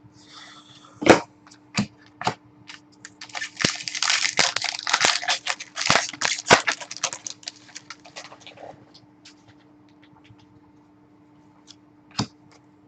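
Trading card packs and their wrappers being handled: sharp clicks and snaps, then a dense spell of crinkling from about three to eight seconds in, and two more clicks near the end, over a faint steady hum.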